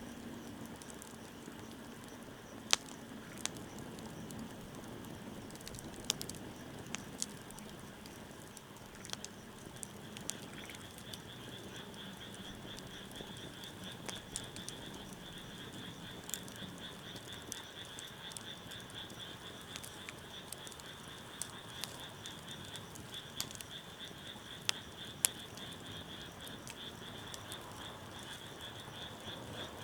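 Wood fire burning with a soft steady hiss and scattered sharp crackles and pops. About ten seconds in, a continuous high-pitched trilling call starts in the background and carries on.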